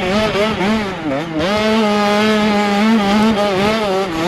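An 85cc two-stroke motocross bike engine revving hard, heard from the rider's helmet. The pitch drops briefly about a second in as the throttle eases, then climbs back and holds high with small wavers.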